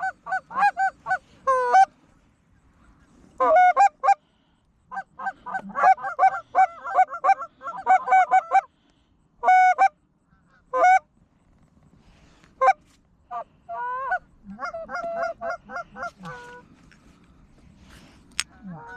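Geese honking in quick runs of short calls, broken by brief pauses, growing sparser toward the end.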